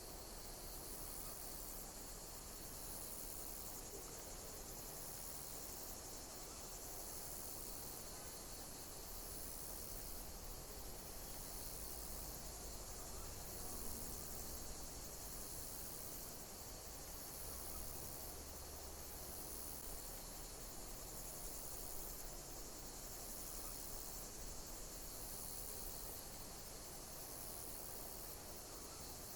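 Insects chirping in a high, steady chorus, one chirp pattern repeating about once a second over an even background hiss.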